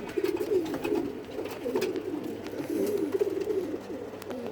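A flock of racing pigeons cooing together, many overlapping low, warbling coos, with scattered light clicks and scuffs from birds moving in the loft.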